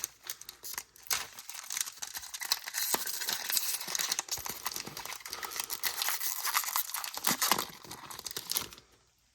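Foil wrapper of a Pokémon booster pack being torn open and crinkled: dense crackling and crinkling that stops shortly before the end.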